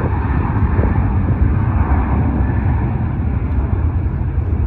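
Jet airliner engines, a loud steady rumble of noise.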